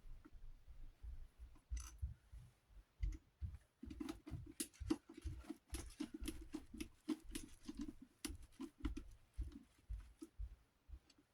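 Bolts being fastened and small metal parts handled while a Galaxy 9-inch oscillating desk fan is reassembled: irregular light clicks, taps and scrapes, with a run of quick repeated strokes from about four to nine seconds in.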